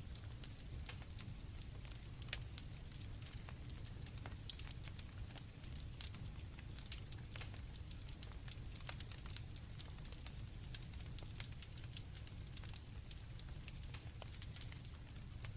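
Campfire crackling with frequent irregular sharp pops over a low rumble, with crickets chirping as a faint steady high trill behind it.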